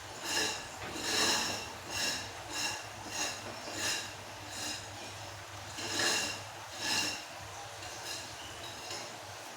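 A person taking short, sharp breaths and sniffs in about nine bursts, crying from the burn of very spicy Samyang fire noodles.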